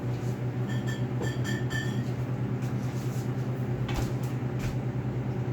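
Microwave oven running with a steady, rapidly pulsing hum. There are a few short high-pitched ringing tones about a second in and a couple of sharp clicks near the end.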